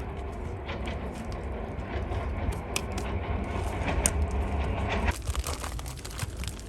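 Wood fire crackling and snapping in a fire stand, with a low rumble that stops abruptly about five seconds in.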